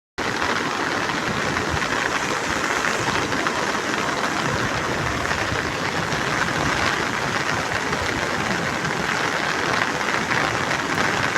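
Steady rushing of floodwater pouring through the breached embankment of a pond after heavy rain.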